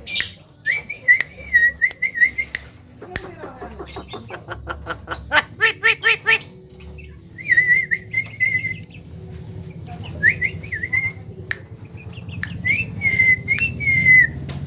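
Javan myna whistling in short warbling phrases. A few seconds in it breaks into a fast, rattling run of clicks, then goes back to whistling.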